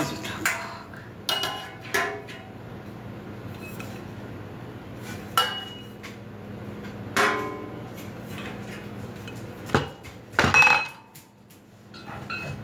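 Metal grill parts clanking as they are handled and fitted together: a series of separate knocks and rattles, some with a short metallic ring, the loudest about ten and a half seconds in.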